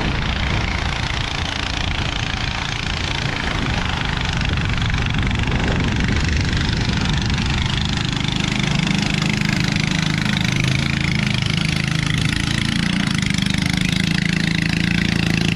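Engine of a motorised river boat running steadily, growing slightly louder as it approaches.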